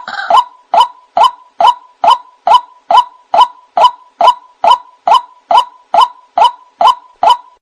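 White-breasted waterhen (ruak-ruak) calling: a long series of short, loud notes repeated evenly at about two a second.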